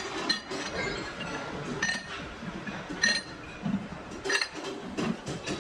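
Light metallic clinks, about five to six irregular strikes, each with a short bright ring, as aluminium kettle pieces are handled and knocked against each other.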